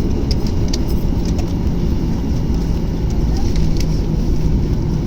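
Airliner engines and cabin noise heard from inside the cabin: a steady low rumble with a steady hum that comes in about a second in, and a few light clicks or rattles near the start.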